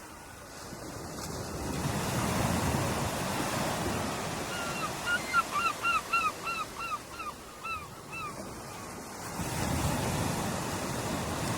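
Ocean waves washing ashore, swelling in twice. In the middle, a bird gives a quick run of about a dozen short calls, each rising and falling in pitch, about three a second.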